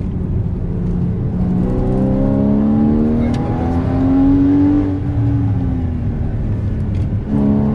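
Porsche Cayman GTS engine pulling hard, its pitch climbing for about three seconds, then falling as the car comes off the throttle, before rising sharply again near the end.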